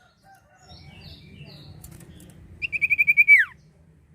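A small songbird gives a quick trill of about seven rapid notes, ending in a falling whistle, over faint scattered chirps and a low hum.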